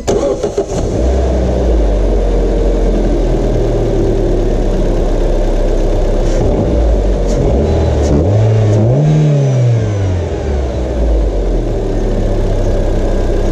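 Nissan HR16DE (Renault H4M) 1.6-litre 16-valve four-cylinder petrol engine cranking on the starter and catching about a second in, then idling steadily on freshly fitted spark plugs. About nine seconds in it revs up once and falls back to idle. It runs well.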